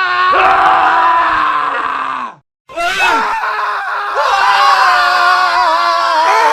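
Men screaming in a montage of clips. A long scream falls in pitch and cuts off about two seconds in, then after a brief silent cut another sustained scream of several overlapping voices begins.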